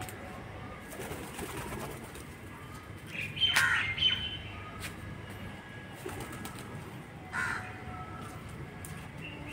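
Birds chirping and calling, with the loudest run of calls about three and a half seconds in and a shorter one near seven and a half seconds.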